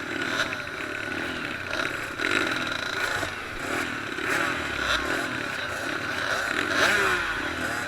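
Several small motocross and pit bike engines racing, revving up and down and overlapping.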